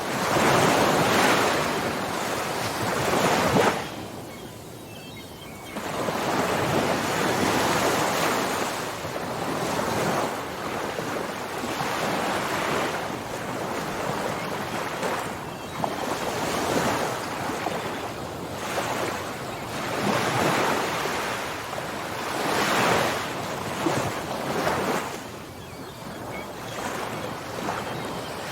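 Ocean surf breaking on a shore, one wave after another, the wash rising and falling in repeated surges. A brief lull about four seconds in comes before the next wave breaks.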